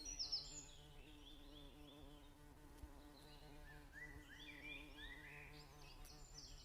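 Near silence with faint, high chirping calls, a cluster of short rising and falling notes in the second half, over a steady low hum.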